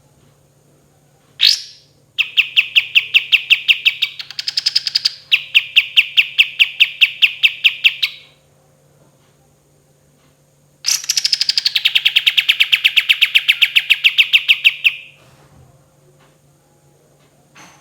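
Kapas tembak songbird singing: one sharp note, then a long rapid trill of evenly repeated notes, about seven a second, with a higher-pitched stretch near the middle. After a pause of a few seconds comes a second trill of about four seconds that starts higher and settles lower.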